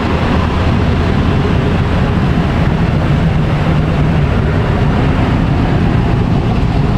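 A vehicle driving: steady engine and road noise, with the engine note standing out for a couple of seconds in the middle.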